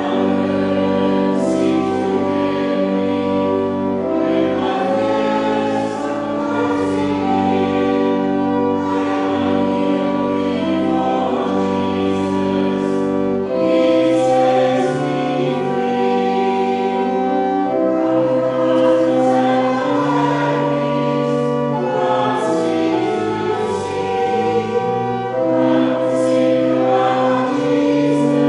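Congregation singing a hymn together, accompanied by a church organ holding sustained chords.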